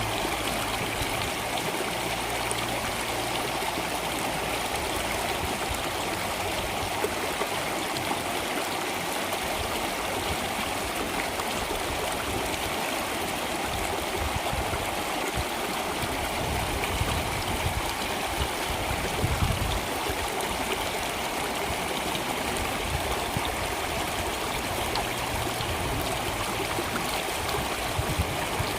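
Steady rushing and trickling of flowing stream water.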